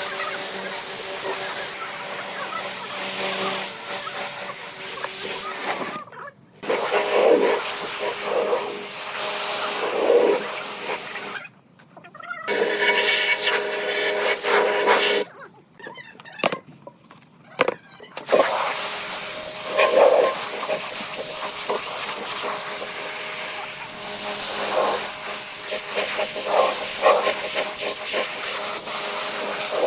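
Power tools working wood: a steady motor hum under a loud grinding, sanding hiss, in short clips cut together with brief silent gaps between them.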